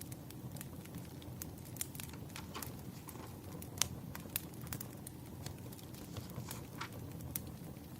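Wood fire crackling: a steady low rumble of burning logs with irregular sharp pops and snaps, the loudest about four seconds in.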